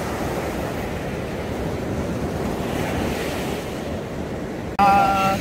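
Surf breaking and washing on a sand beach, with wind buffeting the microphone. Near the end a sudden, loud, steady pitched tone cuts in.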